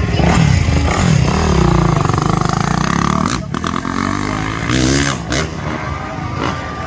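Motocross jump bike engines revving, the pitch rising and falling as the riders throttle up and back off.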